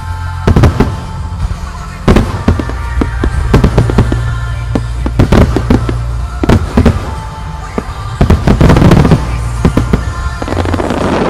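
Aerial firework shells bursting in a rapid volley of sharp bangs, with heavy crackling that thickens in the last few seconds, over loud music.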